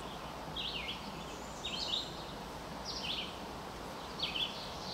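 A songbird singing four short phrases of quick high notes, about a second apart, over a steady outdoor background hiss.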